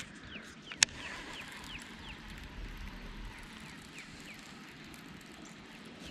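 A bird calling in a run of short, high, falling notes, several a second, over faint outdoor background noise, with a single sharp click about a second in.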